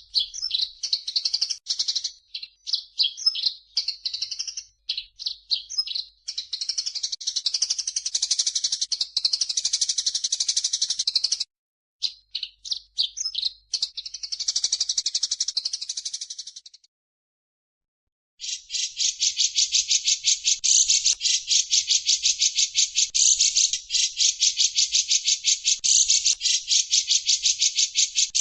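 Birdsong recording of cucak jenggot and Eurasian tree sparrow mixed together: rapid, varied high chattering and twittering, a short break about two-thirds through, then a fast, evenly pulsed buzzy trill.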